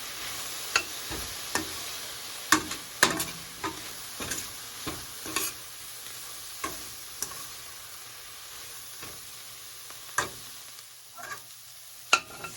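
Chopped onions and spices sizzling in olive oil in a frying pan while being stirred and pushed around. The stirring utensil knocks and scrapes against the pan at irregular moments, more often in the first half, with one sharp knock near the end.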